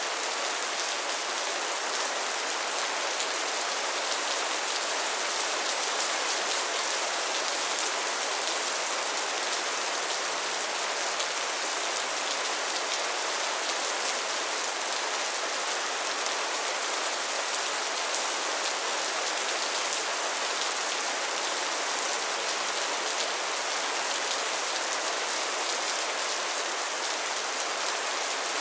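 Steady rain falling, a dense even hiss with the patter of individual drops.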